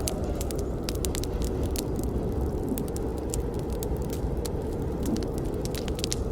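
Campfire burning with a steady low rumble of flames and frequent sharp crackles and pops of burning wood.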